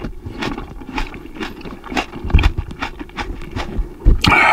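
Close-miked chewing and wet mouth clicks of a person eating cherry tomatoes, with a louder bite about four seconds in.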